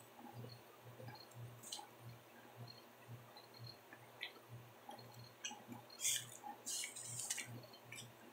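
A person chewing pizza with mouth closed: soft low thuds about twice a second, with a few short wet smacking clicks, the loudest about two-thirds of the way through.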